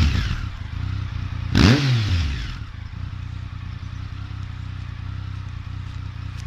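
2007 Triumph Tiger 1050's inline three-cylinder engine through a Storm GP exhaust: a quick throttle blip about a second and a half in that rises and falls, then a steady idle.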